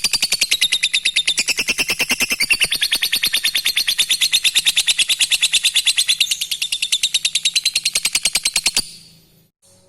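Lovebird giving a long 'ngekek': a fast, even, high-pitched chattering trill of about ten notes a second, which stops abruptly near the end.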